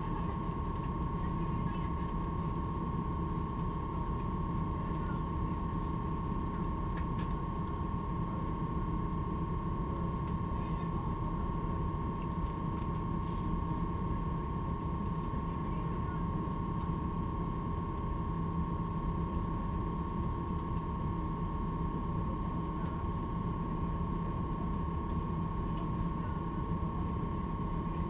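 Inside a standing Stadler DOSTO (ER1) double-decker electric train: a steady high whine with a low hum underneath from the train's onboard electrical equipment, with a few faint clicks.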